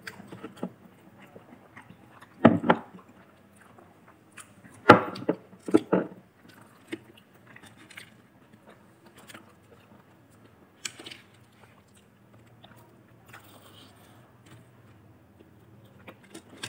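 Biting into crispy KFC fried chicken and chewing close to the microphone, with bursts of loud crunching about two and a half seconds in, around five to six seconds in, and once more near eleven seconds.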